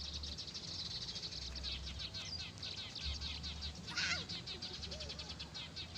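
Many small birds chirping rapidly and continuously in a dense, high-pitched chatter, with one louder sweeping call about four seconds in.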